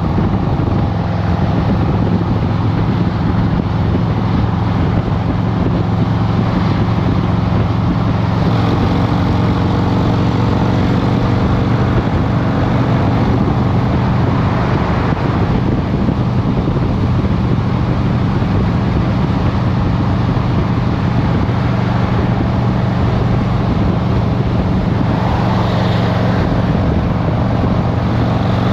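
Harley-Davidson Road Glide Special's Milwaukee-Eight 114 V-twin running steadily at a low, even engine speed, without revving, amid road traffic noise.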